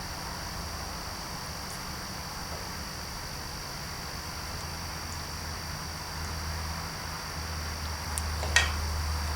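Steady background hum with a constant high-pitched tone over it, and one sharp click near the end.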